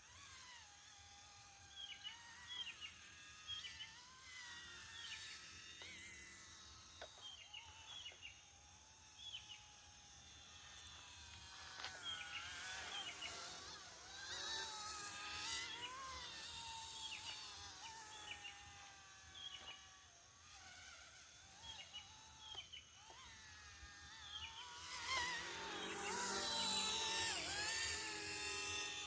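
Small electric RC motor whining at a distance, its pitch rising and falling as the throttle changes. It grows louder twice, the second time near the end.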